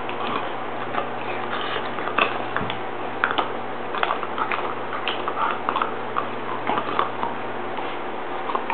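Bernese mountain dog chewing a dental chew toy, with irregular clicking, squishy bites coming several times a second.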